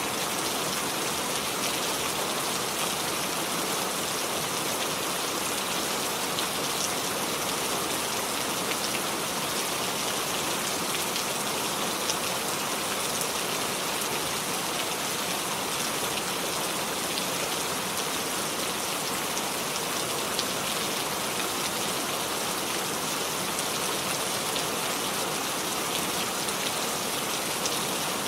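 Steady heavy rain, a dense even hiss with fine pattering of drops on surfaces.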